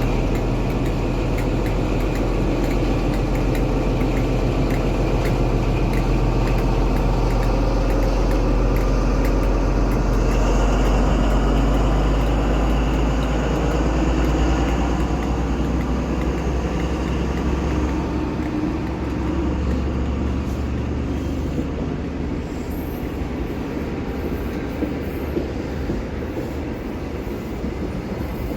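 A train running past, with a steady low drone that is loudest through the first two-thirds and eases after about 18 seconds. Faint wheel clicks come through near the end.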